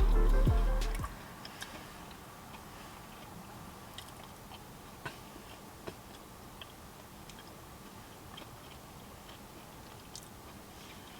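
Music with a heavy bass line stops suddenly about a second in. After that comes quiet mouth-close chewing of chicken nuggets, with scattered soft clicks and crunches.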